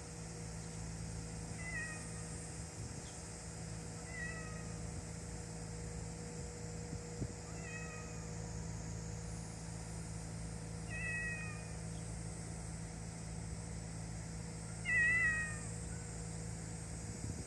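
Cat meowing: about five short calls a few seconds apart, each falling in pitch, the last one loudest. A steady low hum runs underneath.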